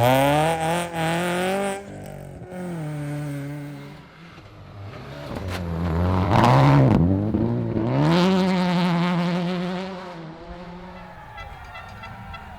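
Rally car engine at full throttle, its pitch climbing hard, then stepping down with gear changes, and climbing again about halfway through before fading toward the end.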